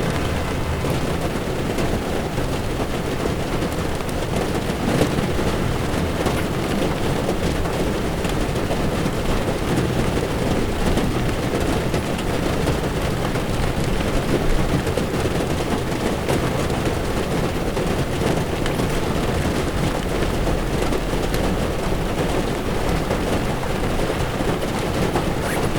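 Heavy rain drumming steadily on a moving car's windshield and roof, thick with small drop impacts, over the low rumble of tyres on a wet road.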